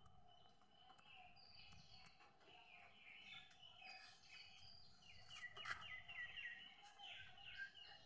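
Faint birdsong: several small birds chirping and trilling in quick, overlapping calls, busiest in the second half, over a faint steady tone.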